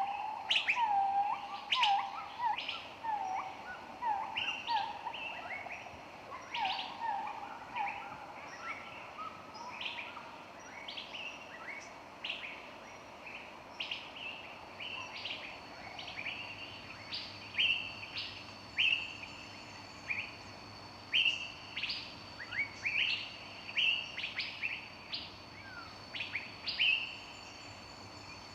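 Several birds chirping and calling over one another in short sweeping notes. For the first eight seconds a lower call repeats as short falling notes about twice a second. From about twelve seconds in, a thin steady high tone runs beneath the chirps.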